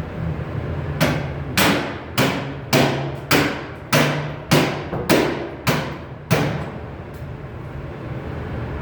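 Hammer blows on sheet metal: about ten sharp, ringing strikes, roughly two a second, starting about a second in and stopping a couple of seconds before the end, over a steady low hum.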